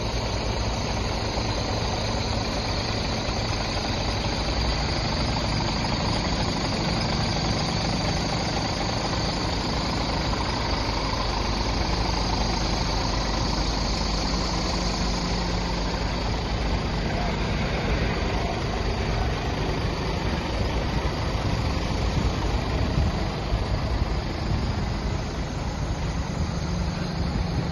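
Scania R 410 truck's 13-litre inline-six diesel engine idling steadily.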